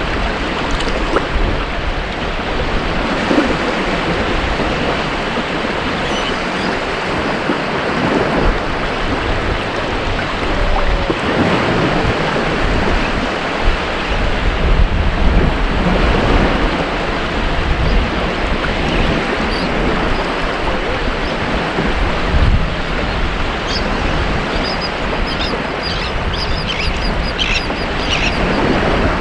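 Ocean waves washing onto a beach: a continuous surf wash that swells and eases, with a few short, high calls near the end.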